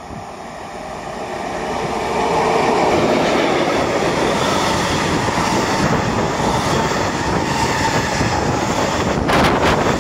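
Freight train hauled by a Škoda class 182 electric locomotive running through, growing louder over the first two seconds as it nears and passes. Its empty container flat wagons follow, the wheels rumbling and clattering steadily on the rails, with a few sharp knocks near the end.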